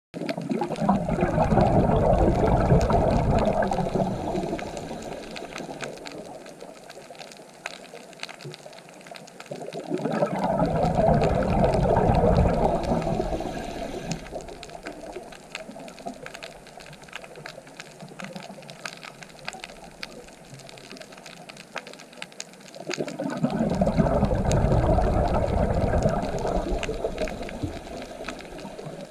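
Water surging in three slow swells several seconds apart, each rising and fading over a few seconds, with a steady crackle of small clicks throughout.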